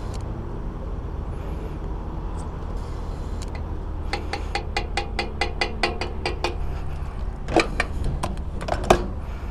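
Gas pump refuelling a motorcycle topped off to the brim: a quick run of about ten regular clicks, roughly four a second, then two loud clunks of the nozzle and filler near the end, over a steady low rumble.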